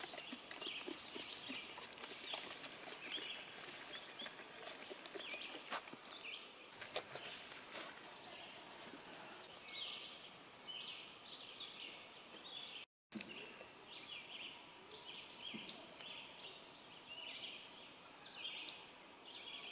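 Songbirds chirping and singing faintly, many short high calls repeating and overlapping. The sound cuts out for a moment about two-thirds of the way through.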